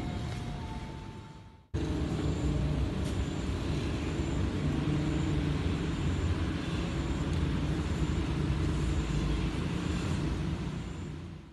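Steady low rumble of outdoor background noise, like road traffic, starting suddenly a little under two seconds in after a brief fading sound.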